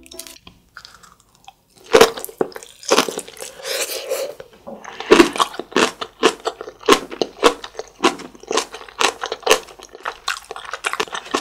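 Close-miked chewing of a mouthful of napa cabbage kimchi with rice: crisp, wet crunches at about two a second, starting about two seconds in.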